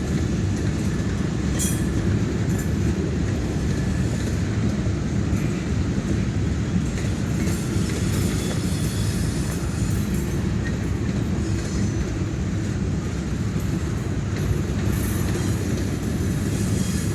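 Train cars rolling across a trestle bridge: a steady, continuous rumble of wheels on rail with a few faint clicks.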